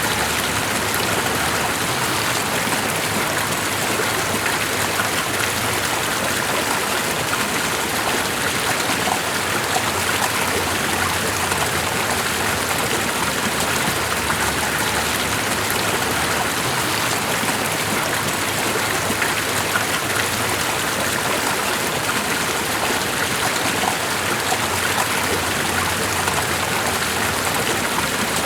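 Steady, unbroken water sound, an even wash of running and falling water with no breaks or changes.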